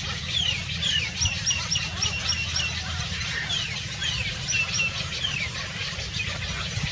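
Small birds chirping: many quick, high, falling chirps, with a fast run of repeated notes between about one and three seconds in, over a low steady rumble.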